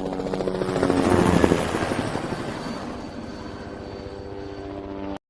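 Helicopter flying past, its rotor beating steadily: the sound swells to its loudest about a second and a half in, then slowly fades, and cuts off abruptly near the end.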